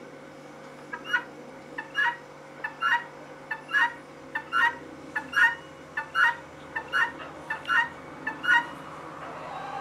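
Female guinea fowl giving its two-note 'buck-wheat' call over and over, a short note then a louder longer one. It repeats about ten times, roughly once a second, and stops near the end.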